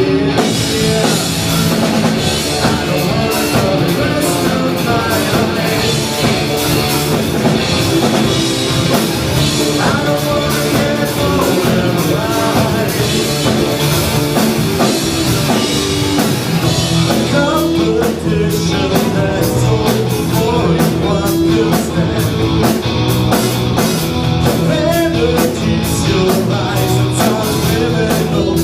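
Rock band playing live: distorted electric guitar, bass and drum kit with a vocalist singing.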